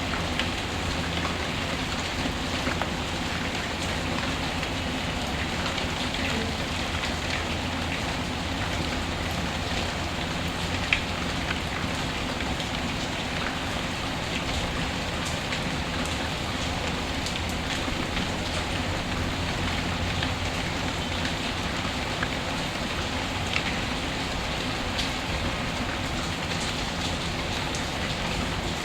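Steady rain falling, mixed with fireplace crackle; a few sharp pops stand out, the loudest about eleven seconds in.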